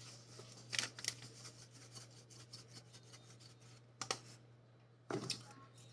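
Faint handling of a spice container over a mixing bowl: light scraping and rattling, with a few sharp clicks about a second in and again near the end.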